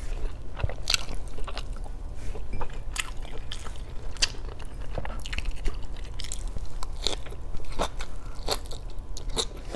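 A person chewing rice and leafy greens close to the microphone, with many scattered sharp crunches and crackling clicks.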